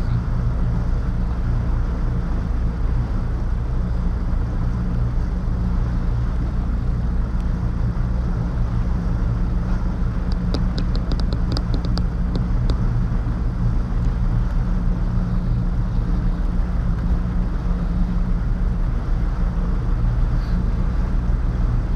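Motorboat engine running steadily at low, no-wake speed, a constant low hum. About halfway through comes a brief run of about ten light clicks.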